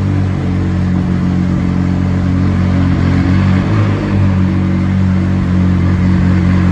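McLaren twin-turbo V8 with an aftermarket Novitec exhaust idling steadily and loudly, its pitch holding level.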